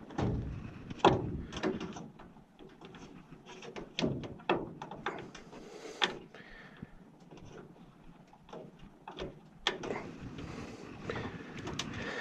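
Irregular clicks, knocks and scrapes of parts being handled and fastened by hand, the loudest a sharp knock about a second in.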